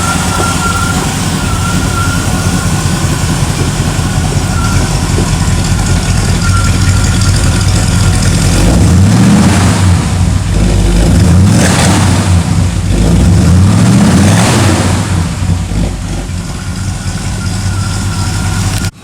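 350 cubic-inch small-block Chevrolet V8 idling, then revved three times, each rev rising and falling back to idle.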